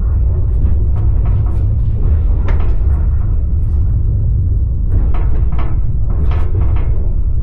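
Passenger train heard from inside the carriage: a steady low rumble of the running train with irregular clacks and knocks of the wheels on the rails.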